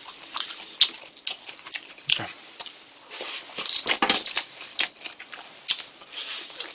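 Close-miked eating of spicy fried chicken: wet chewing, lip smacks and irregular sharp clicks as the meat is bitten and chewed, with a brief hum about two seconds in.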